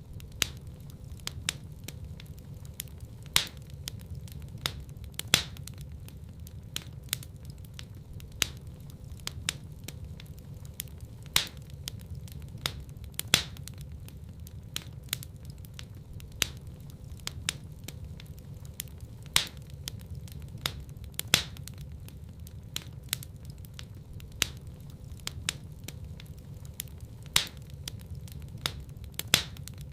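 Wood fire burning in a fireplace: a steady low rumble of flame with frequent irregular crackles and pops, a few of them sharper and louder than the rest.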